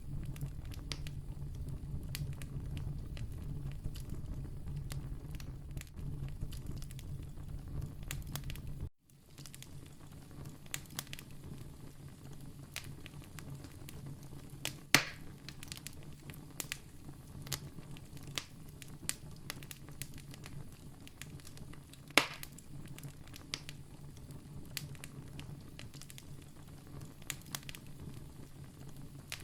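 Wood campfire crackling and popping, with sharp snaps over a low, steady rumble of flame. The rumble drops away suddenly about a third of the way in, leaving quieter crackling with two loud pops later on.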